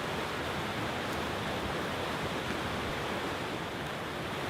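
Forest stream rushing steadily as it cascades over stones in small waterfalls.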